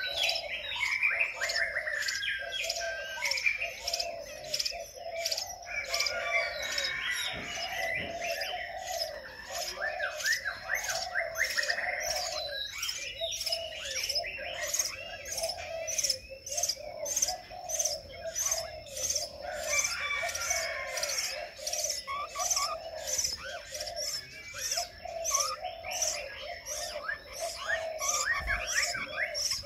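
Birds chirping and calling without a break: a high chirp repeats about twice a second over varied, sweeping warbled phrases.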